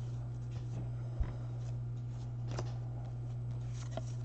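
Trading cards being handled and flipped through by hand: faint soft rustles and light clicks over a steady low hum, with one dull thump about a second in.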